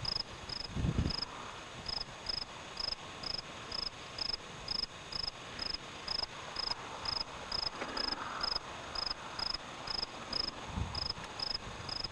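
A cricket chirping steadily, short high chirps at an even pace of about two a second.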